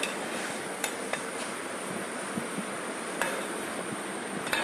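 A few sharp, separate knocks of a spoon against a cooking pan while masala-coated chicken is stirred, over a steady hiss.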